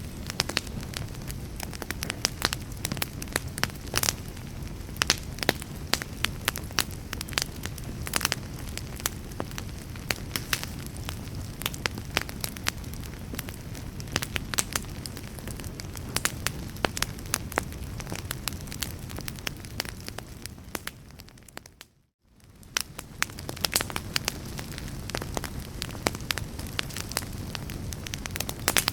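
Wood fire crackling, with frequent irregular pops and snaps over a low steady rumble. About three-quarters of the way through, the sound fades away to near silence for a moment and then fades back in.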